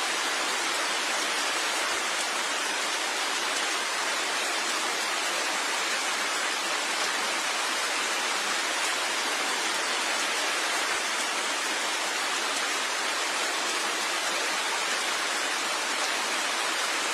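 Rain falling steadily: a dense, even hiss of rainfall with no single drops standing out.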